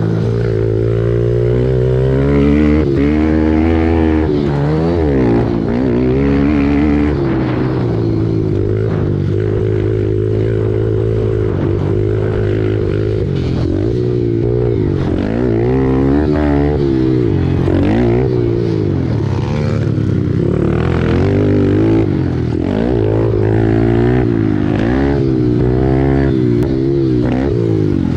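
Pit bike engine racing: revving hard, easing off and revving up again over and over, its pitch dropping and climbing every second or so. A stretch of steadier held throttle comes about a third of the way in.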